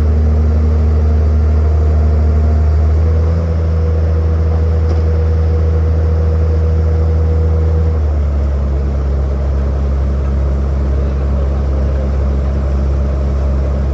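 Engine of heavy construction machinery running steadily, its note changing about three and a half seconds in and again about eight seconds in.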